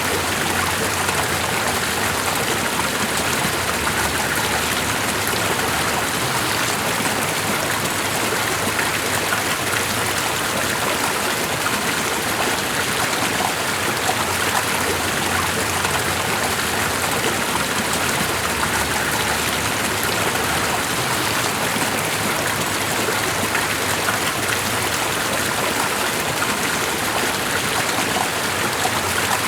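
Running water, a steady, even rush that never changes or pauses.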